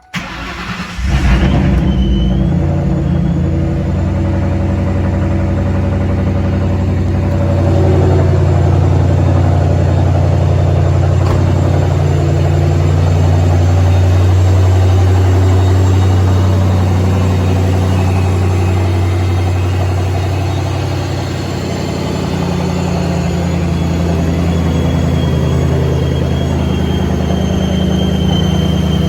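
A 2004 Ford Mustang Mach 1's 4.6-litre DOHC V8, fitted with a Procharger supercharger, starts about a second in and then idles. Over the steady engine note a high supercharger whine sets in and holds, sinking slightly in pitch near the end.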